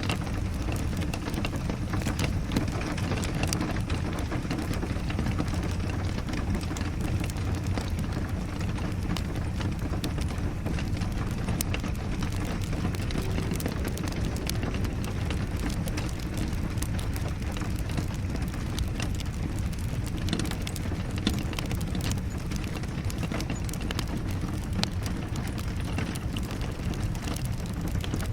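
Wood fire crackling with many small, sharp pops over steady rain.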